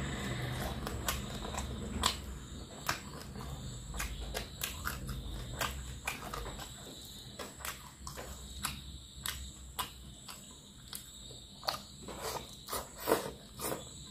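Close-up eating sounds: wet chewing and lip-smacking of a mouthful of fish curry and rice, with squishing as fingers mix rice on a metal tray. Many short sharp smacks, the loudest about two seconds in and around thirteen seconds.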